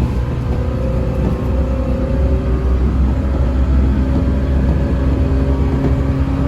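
A JNR-era local electric train running, heard from inside the carriage: a steady low rumble with a held motor hum over it.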